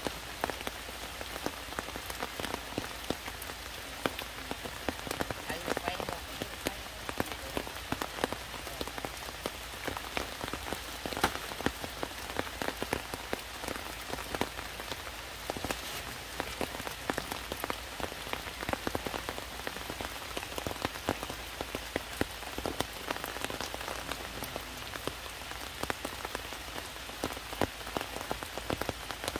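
Heavy rain falling on rocks and broad leaves, a steady wash of rain with many separate drop hits close by.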